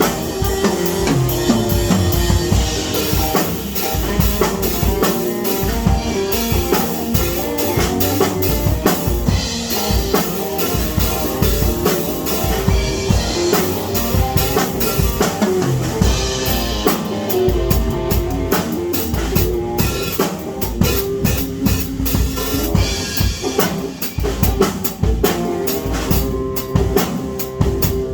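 Music driven by a drum kit, with bass drum, snare and rimshot strokes, playing continuously over pitched instruments.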